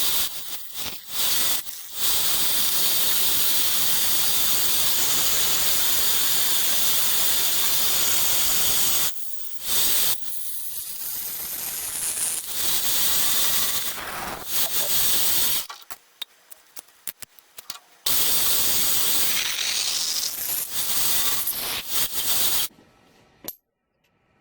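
Milling machine cutting a 45-degree chamfer on a small roller block, a steady hissing cutting noise that stops and starts abruptly a few times.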